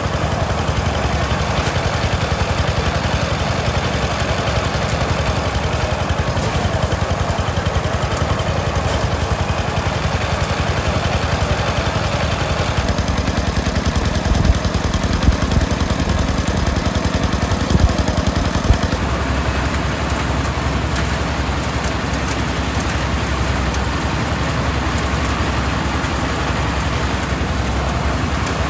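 A small engine running steadily, its note shifting twice. A few sharp knocks come in the middle.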